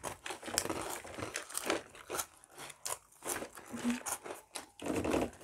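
Crunchy Kurkure corn snacks being chewed and picked at, with a run of irregular crackling and crinkling.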